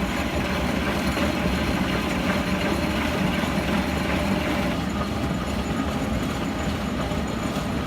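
Diesel engine of a heavy excavator running steadily.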